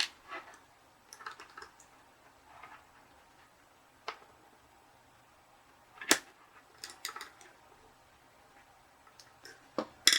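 Small plastic and metal parts of a model locomotive's drivetrain clicking and tapping as they are handled, while a drive coupling is worked onto the motor shaft. The clicks are sparse and irregular, with a sharper one about six seconds in and a few more near the end.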